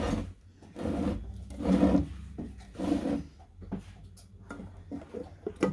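Four rasping strokes on a thin piece of wooden trim, about one a second, followed by a few light knocks of wood being handled.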